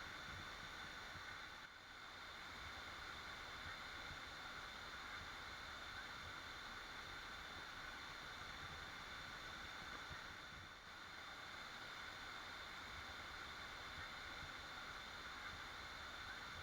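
Waterfall rushing in a steady, faint, even hiss, dipping briefly twice.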